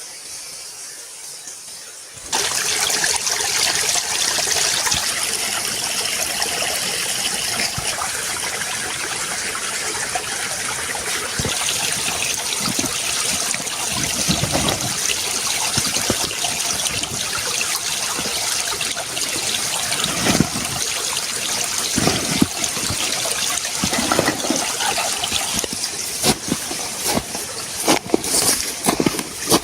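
Running water, a steady rushing and trickling that starts abruptly about two seconds in, with scattered knocks and splashes in the second half.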